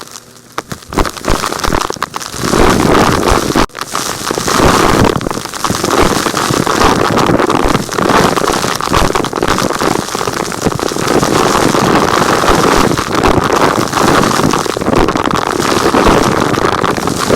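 Vacuum cleaner sucking up crushed, rock-like pieces: a dense rattling crackle of grit over steady suction noise, building up over the first couple of seconds and then continuing steadily.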